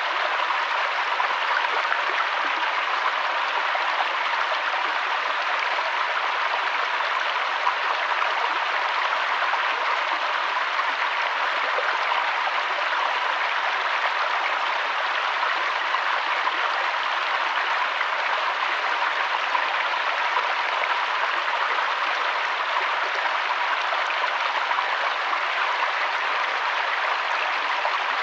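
River water flowing and rushing over stones, a steady unbroken rush.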